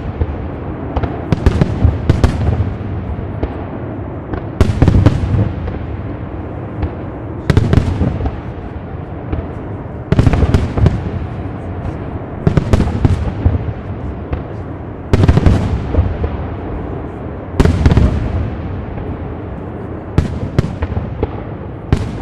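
Aerial firework shells bursting: a loud boom every two to three seconds, each trailing off in a long rolling rumble, with smaller pops and crackles between.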